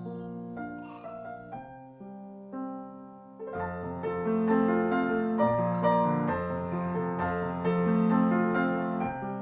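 Background piano music: a quiet, sparse passage that swells into fuller, louder chords about three and a half seconds in.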